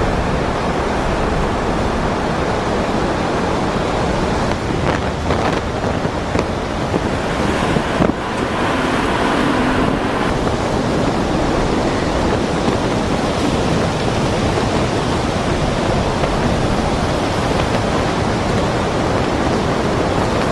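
Strong wind and ocean surf making a steady, loud roar, with a few sharper gusts or crashes about five to eight seconds in.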